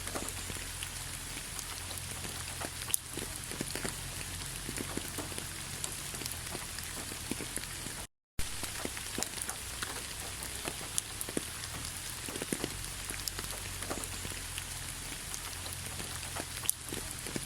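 Steady rainfall: an even hiss with many individual raindrops tapping at irregular moments. The sound cuts out to silence for a fraction of a second about halfway through, then resumes.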